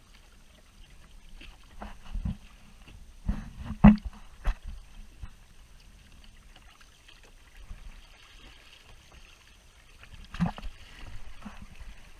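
A kayak being paddled: the paddle working the water, with a few sharp knocks, the loudest about four seconds in and another near the end.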